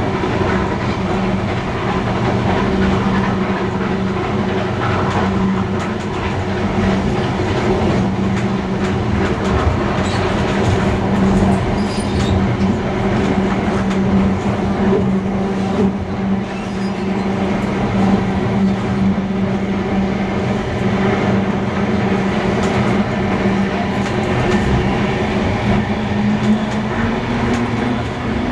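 Steam-hauled heritage train running on the rails: a steady rumble of wheels on track with a continuous hum that rises slightly in pitch near the end.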